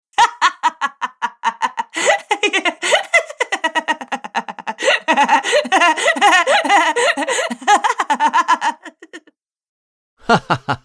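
Laughter sound effect: voices giggling and laughing in quick repeated pulses for about nine seconds, then stopping. A short separate sound starts just before the end.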